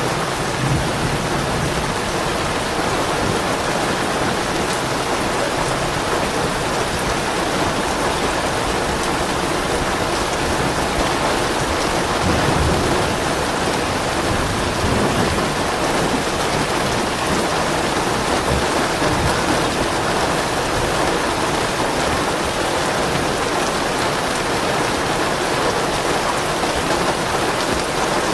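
Steady rain falling on a surface, with soft low rumbles of distant thunder swelling a few times underneath.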